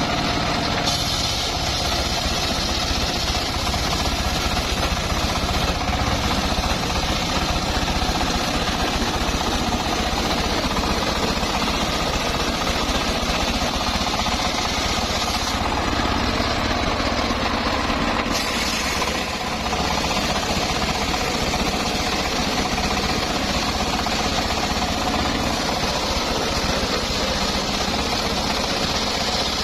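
Homemade circular-saw mill running, a steady, loud mechanical din from its engine and blade as it works teak logs.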